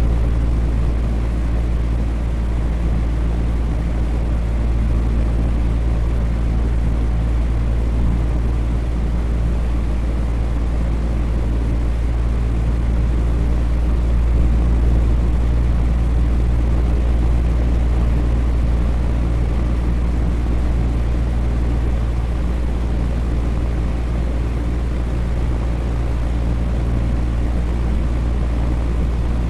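Electric fan running steadily: an even rushing noise with a deep, steady hum underneath.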